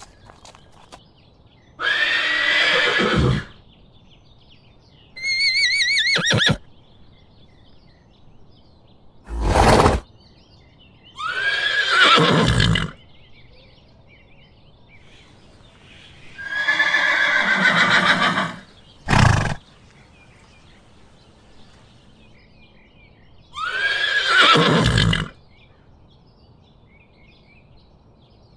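Horse neighing about five times, each whinny a second or two long and falling in pitch, with two short, sharp sounds between them.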